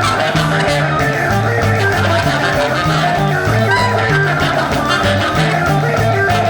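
Instrumental band music: electric bass playing a moving line of low notes under drums and guitar, at a steady full level.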